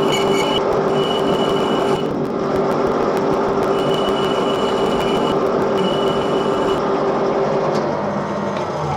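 Metal lathe running while machining a pump bush: a steady mechanical hum with a thin high whine that comes and goes, the noise easing off near the end.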